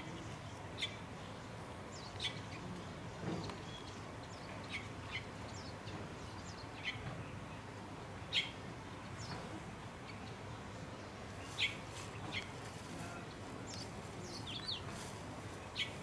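Small birds giving short, high chirps, one or two at a time at irregular intervals, over a steady low background rumble.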